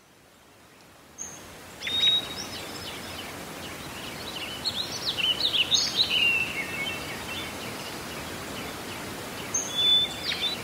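Birds chirping and singing in short calls over a steady background hiss. The hiss fades in over the first second, and the calls come in a busy run in the middle and once more near the end.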